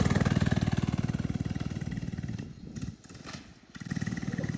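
Small single-cylinder minibike engine (FRP GMB100) running at a steady speed; it fades down a little past halfway through, then comes back up near the end.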